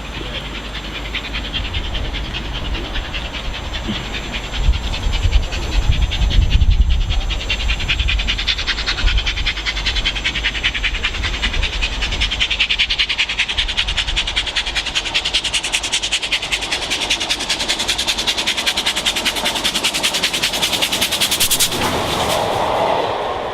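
LMS Stanier Class 5 4-6-0 steam locomotive running light engine past the lineside, with a rapid, even rhythmic beat that grows louder over the first half and then holds steady. The sound changes abruptly near the end.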